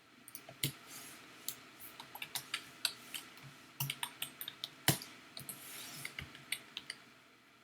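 Typing on a computer keyboard: irregular key clicks, with one louder click about five seconds in.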